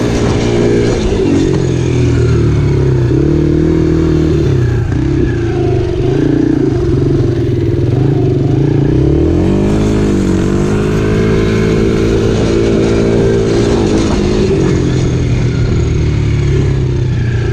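Dirt bike engine running under load, its note rising and falling with the throttle, dipping about nine seconds in and climbing again.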